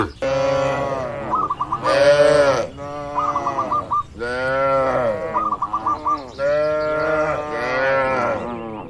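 Cattle calling: several overlapping, drawn-out moos that each rise and then fall in pitch, one after another, with short chirpy notes among them.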